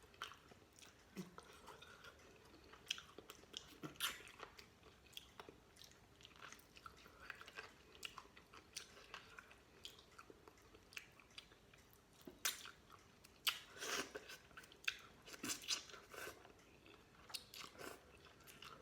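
A person chewing and gnawing pork off the bone, with irregular faint wet clicks and smacks of the mouth and a few louder bites now and then.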